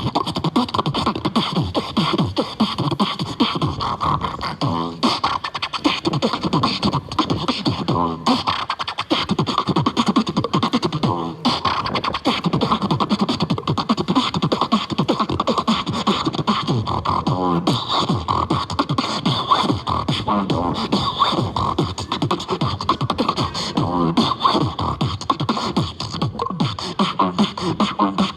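Continuous fast beatboxing: a dense stream of vocal kick, snare and hi-hat sounds mixed with pitched vocal lines, keeping a steady rhythm without a break.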